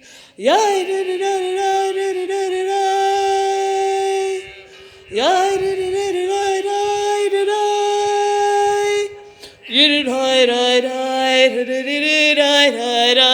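A single voice singing unaccompanied and without words in a railway tunnel: two long held notes, each swooping up into the pitch, then a quicker run of notes from about ten seconds in.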